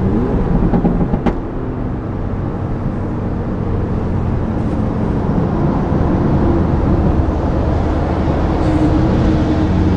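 Tuned Audi RS3's five-cylinder turbo engine droning steadily inside the cabin at motorway speed, over road and wind noise, slowly getting a little louder.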